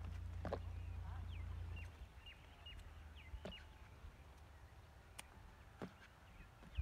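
A small bird chirping faintly: a run of short, quick, falling chirps about a second in, lasting a couple of seconds, and another near the end. A few sharp light clicks and a low rumble that fades after the first two seconds lie under it.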